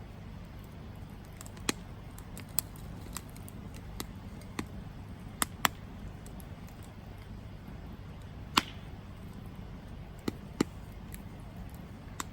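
Wood campfire crackling: irregular sharp pops and snaps over a steady low background, the loudest pop about eight and a half seconds in.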